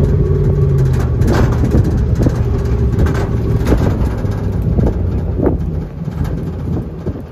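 Open-air 4x4 tour truck driving off-road: a steady engine hum with knocks and rattles from the bodywork over the rough track, growing quieter about six seconds in.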